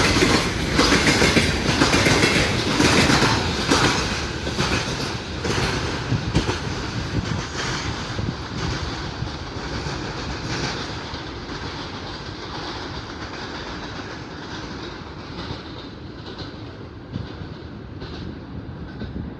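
A train running past on the rails and moving away: regular clickety-clack of wheels over rail joints, loud at first, then fading steadily and growing duller as it recedes.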